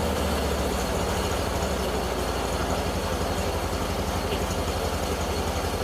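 Briggs & Stratton engine of a 1997 Mastercraft 12.5/38 lawn tractor running steadily. Within the first second its note drops to a lower, evenly pulsing beat. The engine is running decently after years parked outside.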